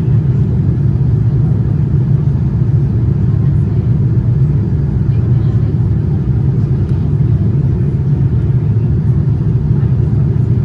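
Steady low rumble of a Boeing 787-9 airliner heard from inside the cabin: the noise of its GEnx engines and the airflow, even throughout.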